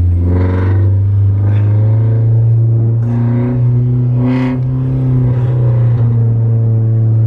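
Nissan 240SX engine running with a steady low drone, heard from inside the stripped-out cabin.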